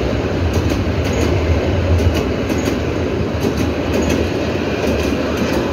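Freight train's hopper wagons rolling past close by over a girder bridge: a steady low rumble with irregular clacks of wheels over rail joints.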